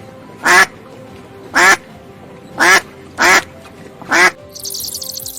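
A bird giving loud, short, duck-like honking calls, five of them about a second apart, over soft background music. Near the end the calls stop and a high chirring takes over.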